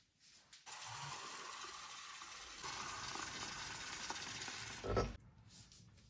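Steady hiss of falling rain that starts abruptly, grows louder about two and a half seconds in, and cuts off shortly after a single dull thump near the end.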